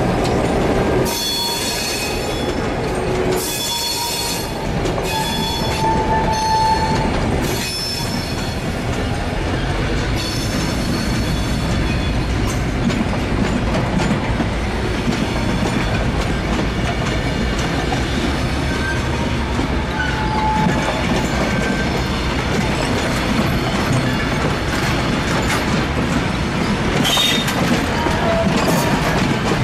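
Vintage passenger carriages rolling slowly past on jointed track. The wheels squeal in high tones, mostly in the first dozen seconds and again briefly near the end, with clicks over the rail joints. Beneath runs a steady rumble and the low drone of the hauling diesel locomotives.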